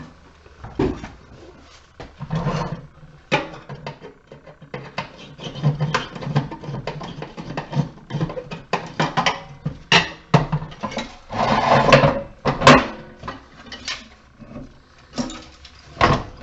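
Irregular metallic clattering, knocks and rattles from handling tools and the cast-aluminium housing of an HID light fixture as it is taken apart, with a longer run of rattling about two-thirds of the way through.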